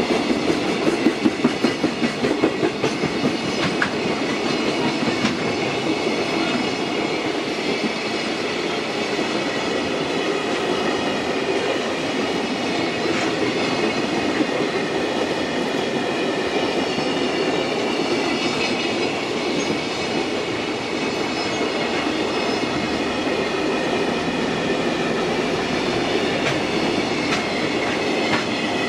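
JR Freight container train of flat wagons passing close by, its wheels clattering over the rail joints. The clatter is loudest and most regular in the first few seconds, over a steady high ringing from wheels and rails.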